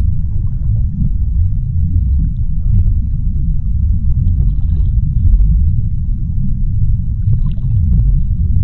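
Underwater sea-floor ambience: a steady low rumble with faint scattered clicks and crackles above it.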